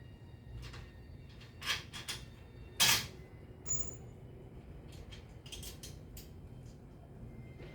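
A handful of light knocks and clinks, as of hard objects being handled, the loudest about three seconds in and one just after it with a brief high ring.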